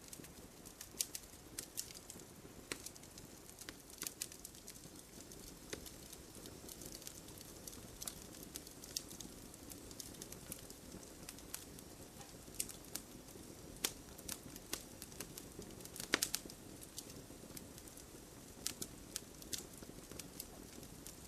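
Wood campfire crackling: irregular sharp pops and snaps over a soft, steady low hiss of burning, with a quick cluster of louder pops about sixteen seconds in.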